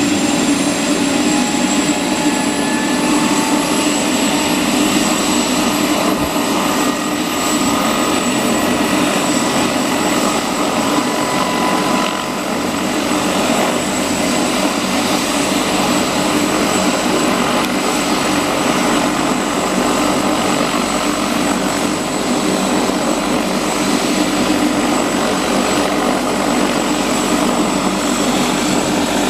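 Helicopter turbine engine during start-up: a steady loud drone with high whining tones that slowly rise in pitch as the engine spools up.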